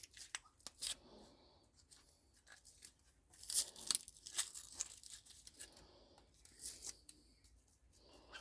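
Material being torn and scraped off a microwave oven transformer, in irregular ripping rasps with a few sharp clicks, loudest about a third of the way through.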